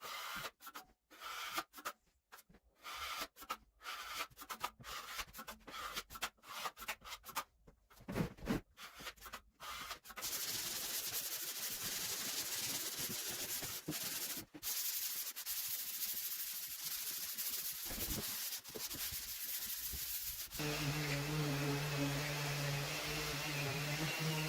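Drywall joint compound being worked with a taping knife: short, irregular scraping strokes. From about ten seconds in it gives way to a steady sanding hiss, and near the end an electric motor starts humming under it.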